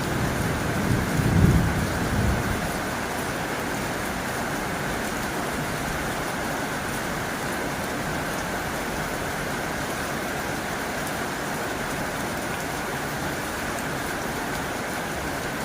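Heavy rain drumming steadily on a tin roof. A low rumble of thunder fades out in the first two seconds or so.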